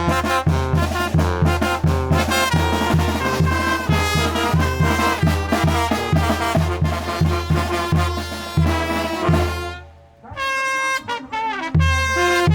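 Mexican brass band (banda) playing a chilena: trumpets and trombones over a steady, even bass pulse. About ten seconds in the band drops out for a moment, the brass plays on alone without the bass, and then the full band comes back in.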